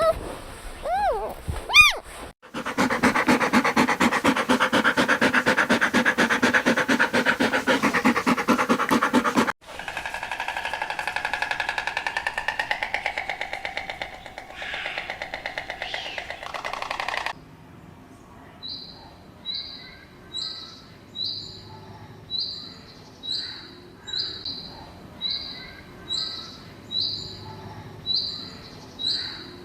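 A run of different animal calls: a few short rising-and-falling calls, then a long loud pulsing call, a quieter pulsing call that rises in pitch, and finally a steady series of short high chirps, a little more than one a second.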